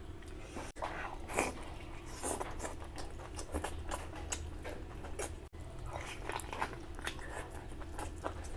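Close-miked chewing and biting of food, a run of short irregular wet mouth clicks over a steady low hum. The sound breaks off sharply twice, briefly, under a second in and about five and a half seconds in.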